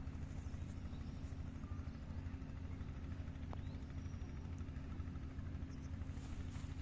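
A motor running steadily with a low, even hum that does not change.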